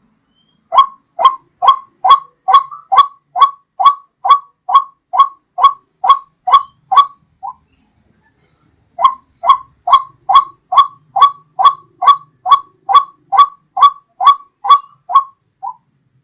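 White-breasted waterhen (ruak-ruak) call repeated over and over, about two short notes a second. There are two runs of roughly fifteen notes, each ending in a softer note, with a pause of about a second and a half between them.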